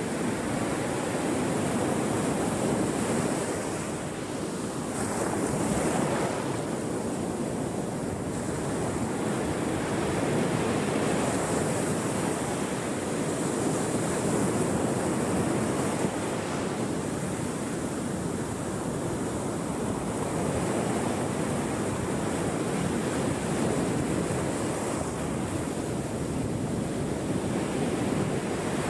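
Ocean surf washing onto a shore: a continuous rushing that swells and eases every several seconds.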